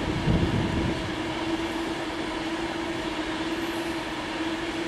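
Class 390 Pendolino electric train passing through the station on the West Coast Main Line: a steady rush of wheel and body noise under a steady hum, heavier at the low end in the first second.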